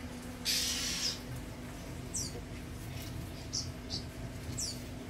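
Small birds chirping: about five short, high chirps, each falling in pitch, over a steady low hum. A brief hissing rustle about half a second in is the loudest sound.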